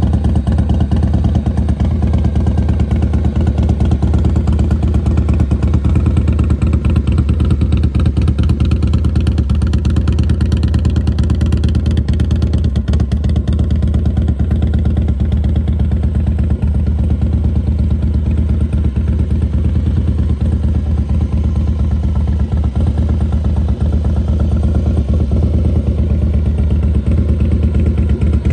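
Harley-Davidson Night Train's fuel-injected 88-cubic-inch Twin Cam V-twin running steadily at idle.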